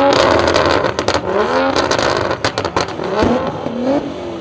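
Car engine revving up and down several times in quick succession, with sharp cracks and pops among the revs.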